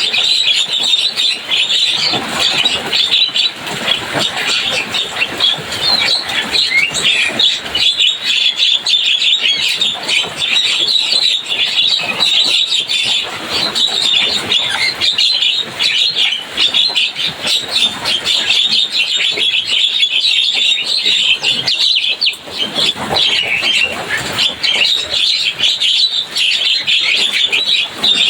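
Javan myna (jalak kebo) chattering without a break: a fast, dense run of chirps and squawks.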